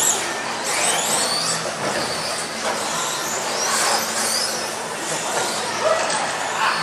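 Several radio-controlled off-road cars and trucks racing together, their motors whining in overlapping pitches that rise and fall as they accelerate and brake.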